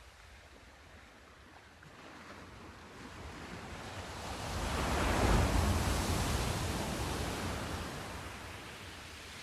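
Sea surf: a single wave builds, breaks with a rushing wash about five seconds in, then fades away.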